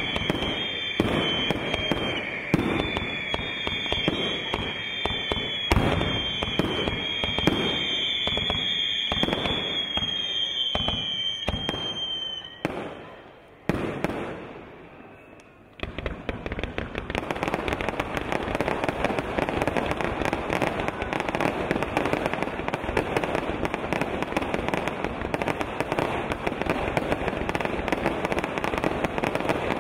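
Fireworks display: a run of sharp bangs with high, slightly falling whistles for the first dozen seconds, a short lull, then from about sixteen seconds in a dense, continuous crackling barrage.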